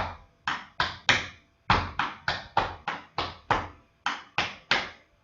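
Tap shoes striking a hard floor in a quick tap step sequence, about fifteen crisp taps at roughly three a second, in short groups with brief pauses between them.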